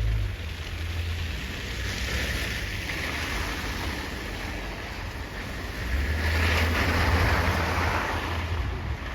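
Snowstorm wind gusting: a steady rushing hiss with low rumbling buffets on the microphone, swelling again about six seconds in.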